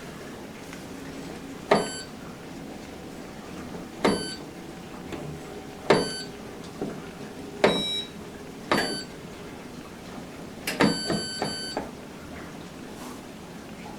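Washing machine control panel giving a short electronic beep with a click at each input, about six times at uneven intervals, with several quick ones close together near the end.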